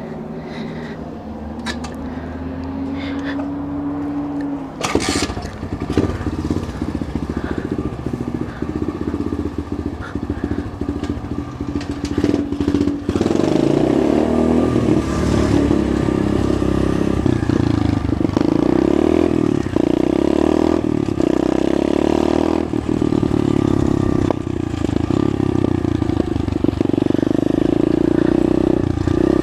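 Pit bike engine running under way: it climbs in pitch over the first few seconds, a sharp click comes about five seconds in, and from about halfway through it runs louder and steadier, its pitch wavering as the throttle changes.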